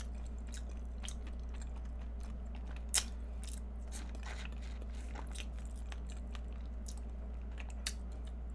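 Egg tart's flaky, layered pastry crust crackling as it is bitten and chewed close to the microphone: a scattering of small crisp crunches, with a sharper one about three seconds in. A steady low hum runs underneath.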